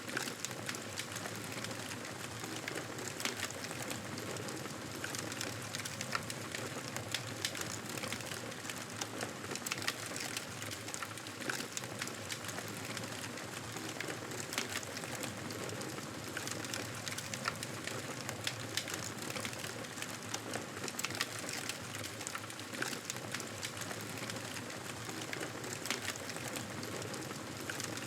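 Wood fire crackling in a fireplace: a steady hiss dotted with frequent small, sharp pops and snaps.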